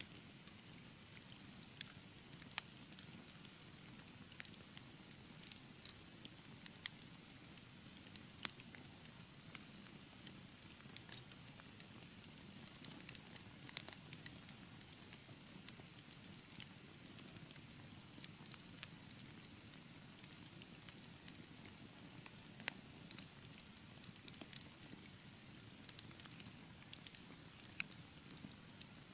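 Wood fire crackling in a fireplace: scattered sharp pops and snaps over a soft, steady low rumble of burning.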